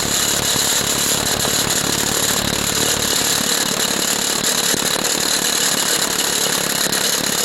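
Impact gun hammering without a break on the nut of a truck-bed carriage bolt, working it loose while the bolt head is held down.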